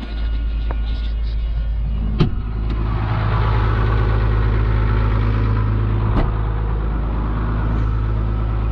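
Vehicle engine running steadily, its pitch and level picking up about three seconds in, with two short sharp knocks along the way.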